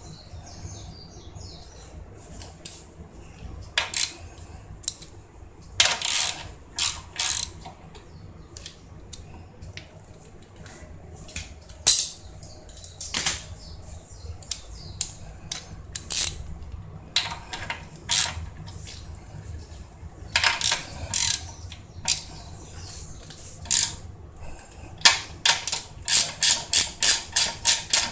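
Ratchet wrench clicking in short, irregular strokes while working a car's wheel nuts, ending in a fast run of about three strokes a second.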